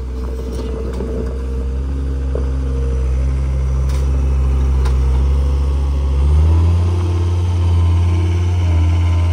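Tractor diesel engine running steadily, its speed stepping up about six seconds in as it works under load.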